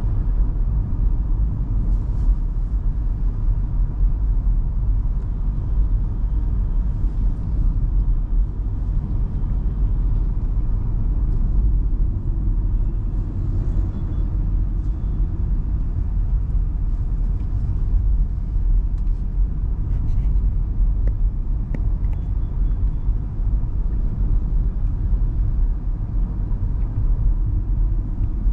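Steady low rumble of an MG Hector Plus SUV driving, its 1.5-litre turbo petrol engine and tyres on the road, with faint scattered ticks.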